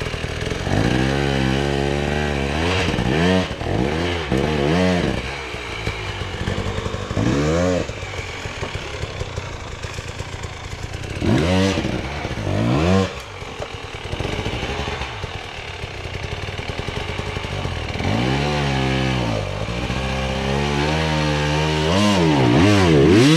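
Enduro motorcycle engine revved hard again and again, the pitch climbing and falling back with each burst of throttle as the bike struggles to climb over logs. The longest, highest rev comes near the end.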